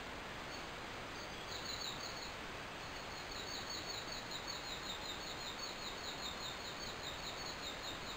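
Steady background hiss with a bird chirping repeatedly, short high chirps about three a second, starting about a second and a half in.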